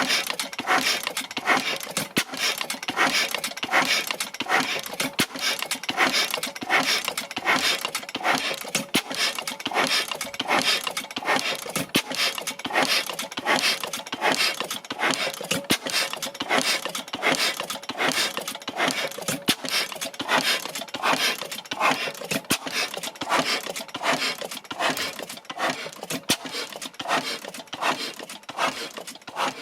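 Blackstone 3 hp oil engine running steadily on test after part replacement, with a regular, even beat and sharp clattering clicks on every stroke.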